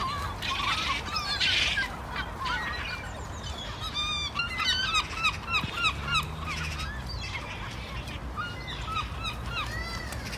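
A flock of birds calling, many short squawking calls overlapping, busiest about four to seven seconds in.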